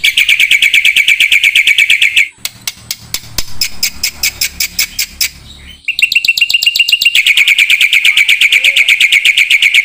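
Songbird singing a rapid series of high chirps, about ten a second. About a quarter of the way in they break into a quieter run of clicking notes. Past the halfway point comes a short held whistle, then the rapid chirping resumes.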